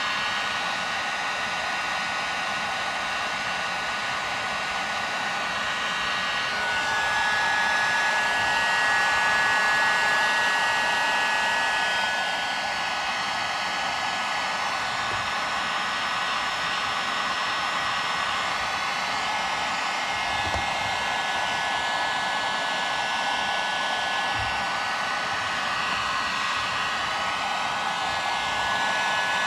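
Electric heat gun blowing steadily while shrinking heat-shrink tubing: a constant rush of hot air with a high fan whine, swelling a little about a quarter of the way in.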